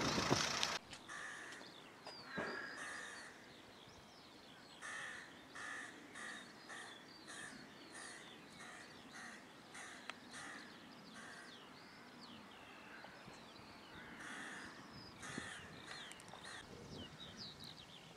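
Birds calling: one bird gives a series of short calls, about two a second for several seconds, while smaller birds chirp around it. In the first second, the steady noise of a BAe 146 jet airliner's engines cuts off suddenly.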